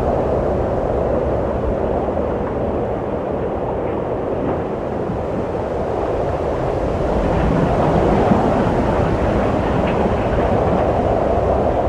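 Steady wind blowing as a low, rushing noise that swells slightly past the middle and then eases.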